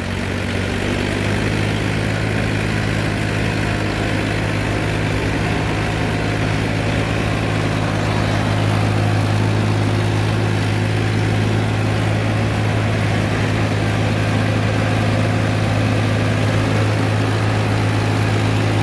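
Farmtrac tractor's diesel engine running steadily under load while pulling a trolley, growing a little louder about eight seconds in.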